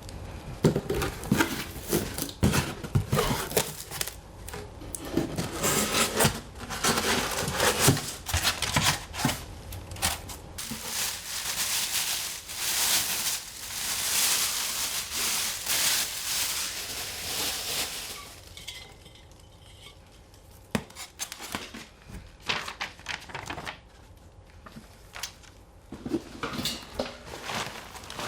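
A metal fire pit being unpacked: metal parts clinking and knocking, with packaging rustling in a long stretch near the middle, then quieter handling with a few clicks.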